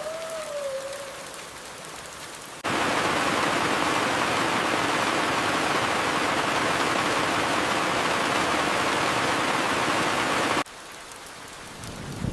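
Steady rain hiss. About two and a half seconds in, a much louder, even downpour cuts in abruptly and cuts off just as suddenly about eight seconds later. A faint whistle gliding down in pitch fades in the first second, and a low thunder rumble begins right at the end.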